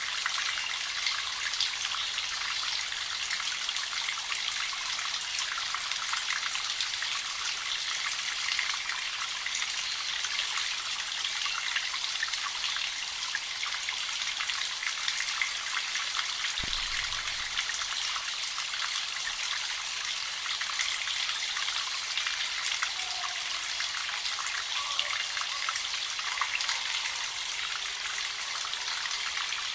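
Spring water trickling and dripping steadily into a small pool, full of fine pattering ticks. A single soft low thump comes about halfway through.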